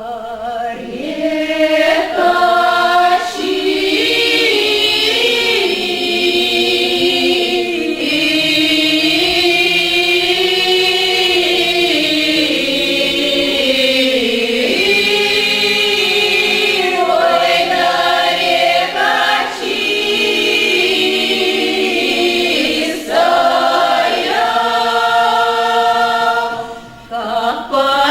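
A Russian folk ensemble singing a cappella in several voice parts, long held notes sliding between pitches, with short breath pauses between phrases.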